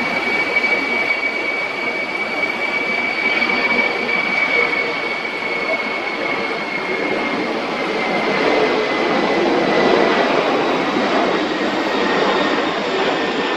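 Boeing 747-400 freighter's four jet engines running, a broad rush with a strong high whine that sinks slightly in pitch, growing loudest about ten seconds in.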